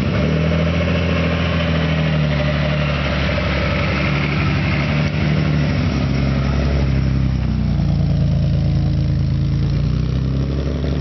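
Nissan Fairlady Z432's S20 straight-six four-valve DOHC engine, breathing through twin-choke carburettors, running at idle. It is a little brighter and busier over the first few seconds, then settles to a steadier, duller note.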